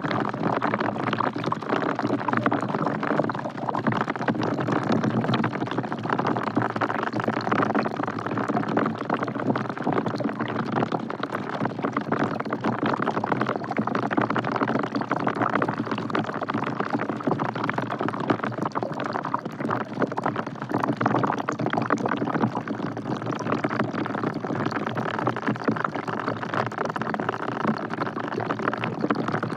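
Rain falling into a bucket: a steady, dense patter of drops.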